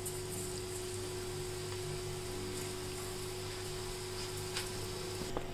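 Besan batter sizzling in hot ghee in a small karahi as mini pakoris fry, a steady frying hiss. A couple of light clicks near the end.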